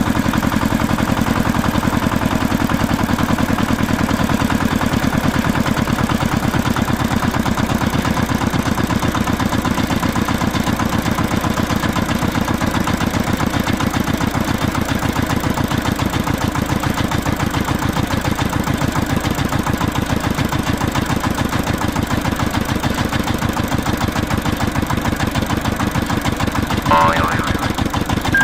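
Steady, rapidly pulsing engine-like running, with a short stepped beep near the end.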